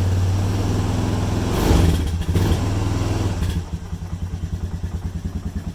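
ATV engine running just after a cold start on a little choke, first at a fast idle. It swells briefly about two seconds in, then from about halfway drops to a slower, quieter idle with an even putt-putt beat.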